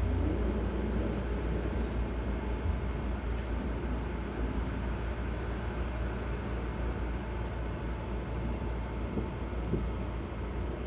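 Running sound of a Seibu 6000 series electric train: a steady low rumble of wheels on track, with a few faint clicks and a faint high whine that rises and falls midway.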